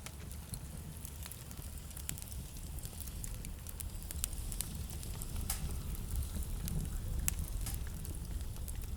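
Wood fire crackling, with sharp irregular pops over a low steady rumble.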